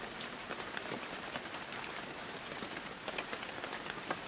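Steady rain falling: an even hiss with many small scattered ticks of drops.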